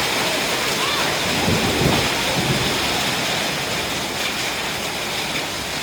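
Heavy rain and hail coming down steadily in a thunderstorm, with a low rumble of thunder from about one and a half to two and a half seconds in.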